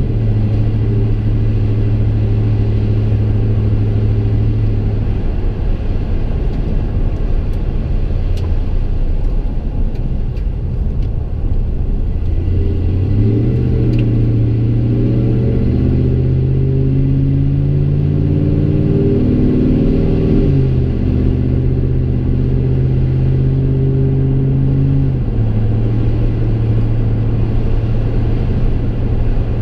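Drone of a 5.3L V8 through a Gibson MWA muffler and Kooks long-tube headers, heard inside the pickup's cab while driving. The truck cruises steadily, then accelerates about halfway through with the engine note climbing for several seconds, and eases back to a steady cruise.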